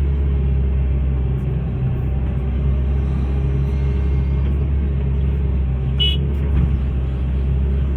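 Hitachi excavator's diesel engine running steadily at a constant speed. About six seconds in there is a brief high-pitched squeak.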